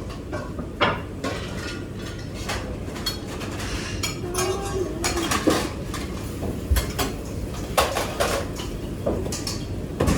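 Dishes, pots and cutlery clinking and clattering in irregular knocks as they are handled and stacked during cleanup.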